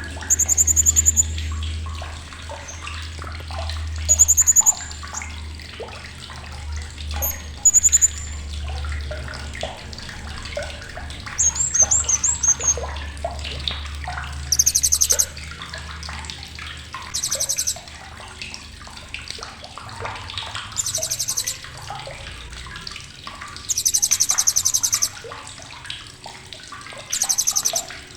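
Blue-crowned hanging parrot (srindit) giving sharp, very high-pitched buzzy chattering calls in short bursts every couple of seconds, over a steady background of running or splashing water.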